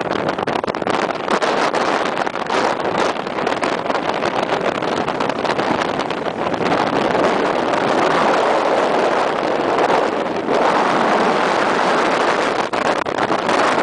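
Steady rushing noise heard from a car driving along a fast, turbulent river, the river's roar mixed with wind and road noise.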